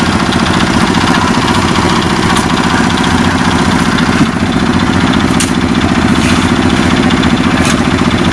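An engine running steadily at close range, loud, with a fast, even chugging.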